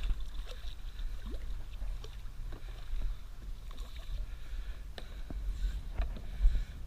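Low, fluctuating rumble of wind buffeting the microphone, with a few faint clicks and knocks, the sharpest near the end.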